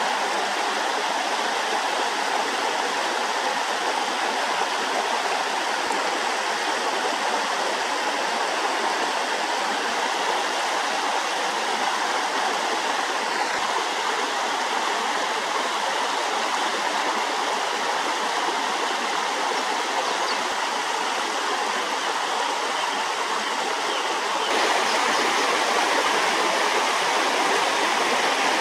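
Steady rushing of flowing stream water, getting a little louder near the end.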